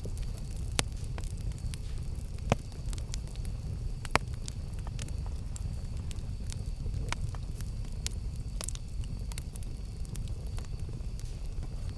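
Campfire crackling: wood burning with irregular sharp pops over a steady low rumble of the flames, the two loudest pops coming a few seconds in.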